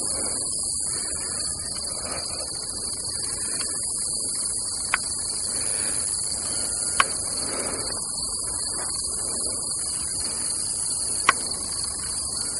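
Steady, high-pitched chorus of insects, unbroken throughout, with a few sharp clicks about five, seven and eleven seconds in.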